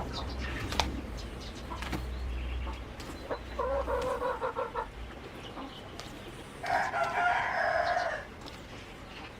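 A rooster crowing twice, each crow held for over a second, with a pause between them. A low hum runs underneath during the first half.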